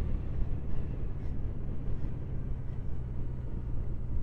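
Triumph Bonneville parallel-twin engine running at a steady cruise with wind rushing past, heard from on the moving motorcycle.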